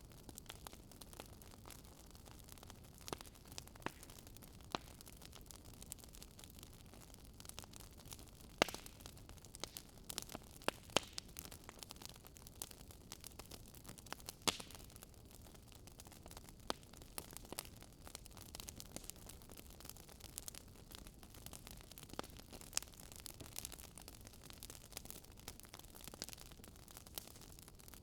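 Wood fire crackling faintly: irregular sharp pops and snaps over a soft hiss, with a few louder pops about a third and halfway through.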